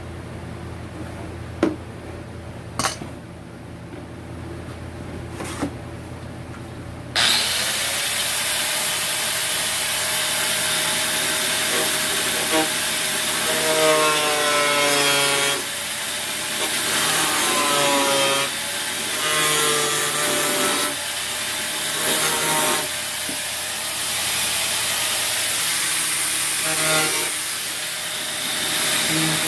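A few clicks, then a power tool switched on about seven seconds in that spins up and runs loudly. Its whine sags and recovers again and again as it cuts under load.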